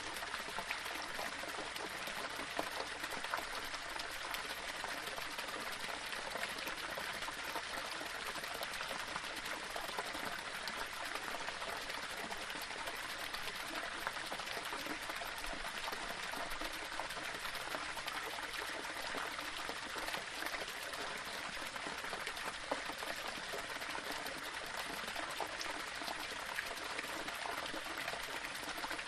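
Small waterfall splashing and trickling over rocks in a steady, unbroken stream, with small irregular splashes throughout.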